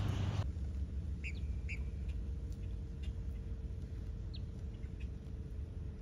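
A few short, faint bird chirps, scattered, over a steady low rumble.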